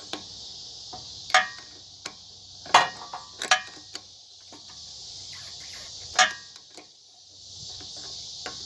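Crickets chirping steadily, with a few sharp metallic clinks and knocks of a wrench working on a corroded battery terminal clamp.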